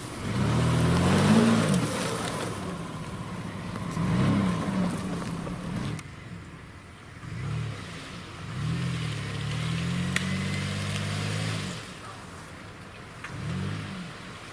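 Off-road 4x4 SUV engine revving in about five separate surges, its pitch rising and falling with each. A rush of hissing noise goes with the first, loudest surge.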